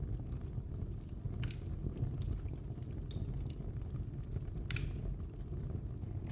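Fire burning in a fireplace: a steady low rumble of the flames with a few sharp crackles and pops, the loudest about three-quarters of the way through.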